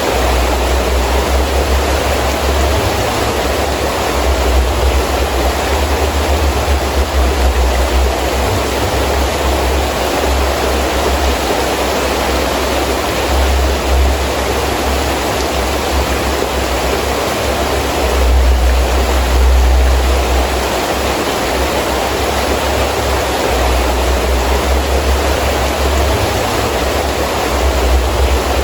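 Heavy rain falling steadily, with gusting wind as a low rumble that swells and fades, strongest about two-thirds of the way through.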